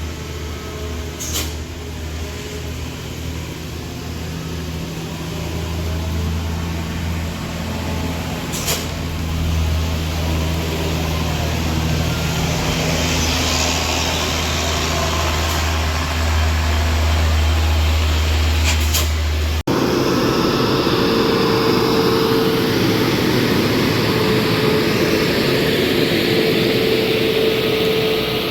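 Heavy vehicle engine running with a steady low rumble, with a few brief clicks. About two-thirds of the way through, the sound cuts abruptly to a different, louder steady drone of road noise with a faint whine.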